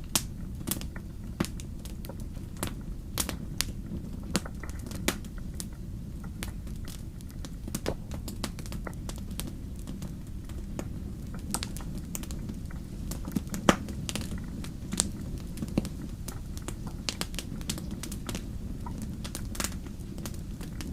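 Wood campfire crackling: irregular sharp pops and snaps of burning logs over a steady low rumble of the flames, with one louder pop about two-thirds of the way through.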